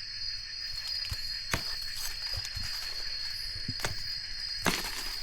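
Forest insects keeping up a steady high-pitched drone, with scattered crackles and snaps of leaves and twigs being moved or stepped on.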